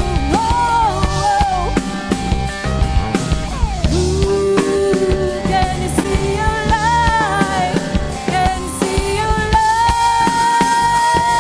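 Rock band playing with a woman singing long held notes over drum kit, electric guitar and bass guitar.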